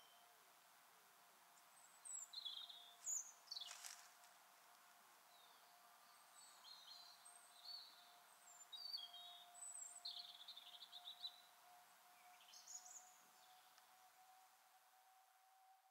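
Faint birdsong: short high chirps and calls scattered through, over a faint steady hum and light hiss, with one brief click about four seconds in.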